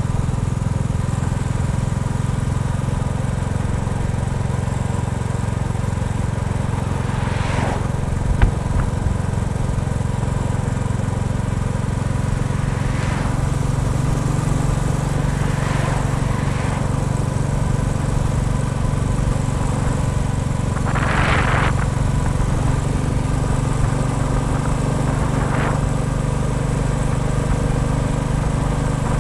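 Royal Enfield Bullet 350's single-cylinder engine running steadily, with a few brief swells of noise over it and a sharp click about eight seconds in.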